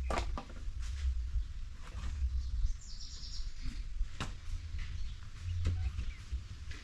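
Bird chirping briefly about three seconds in, over a steady low rumble and a few scattered knocks.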